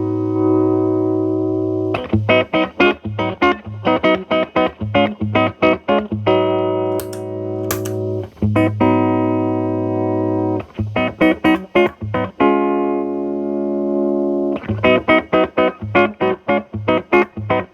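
Electric guitar, a Telecaster, played through an MI Audio Crunch Box distortion pedal at gain about 8–9 into a Marshall Valvestate amp's clean channel. Distorted chords are let ring for a second or two, then broken up by runs of quick, short, choppy chord stabs.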